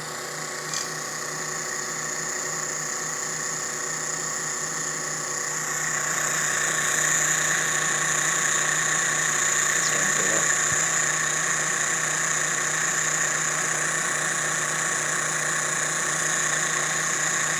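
Miniature model turbojet engine running steadily on gasoline vapour, a continuous whine and hum with a high hiss. It grows louder and brighter about six seconds in.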